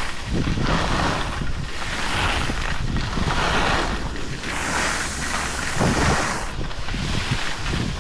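Wind rushing over the microphone of a camera carried down a ski slope, with the hiss of snow under the edges, swelling and easing roughly once a second as the rider turns.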